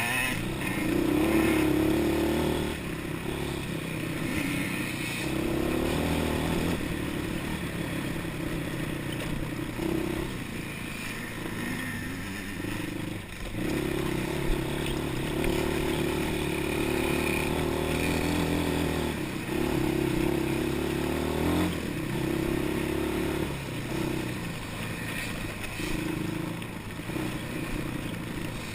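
Quad bike engine being ridden hard off-road, revving up and easing off again and again, with clatter from the machine.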